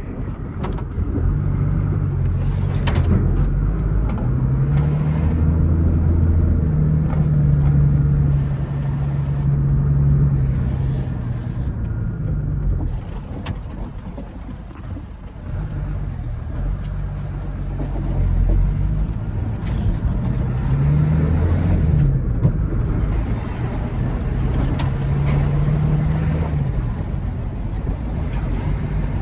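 Truck engine running on the road, its pitch rising and falling several times as the revs change.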